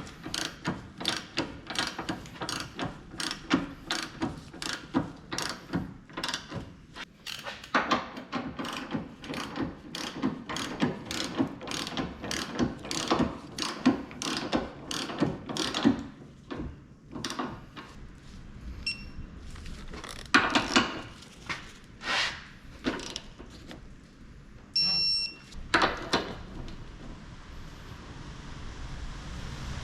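Socket ratchet clicking rapidly, about two to three clicks a second, as a suspension bolt is turned. After the clicking stops come a few louder clunks and two short electronic beeps.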